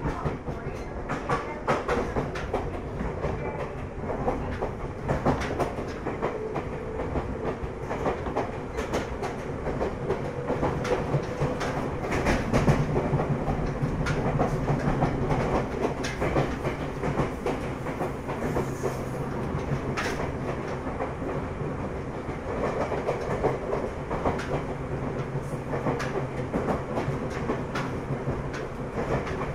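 Ryutetsu 5000 series electric railcar (ex-Seibu) running, heard from inside the car: a steady rumble and hum with frequent clickety-clack of the wheels over rail joints.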